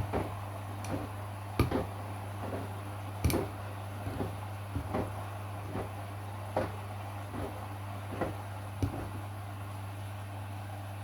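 Washing machine running a wash cycle: a steady low hum with irregular clicks and knocks, the loudest about one and a half and three seconds in.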